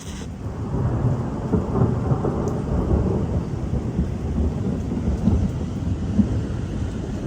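Thunder rolling low and long, swelling over the first second and easing a little near the end, with rain falling. A short sharp click at the very start.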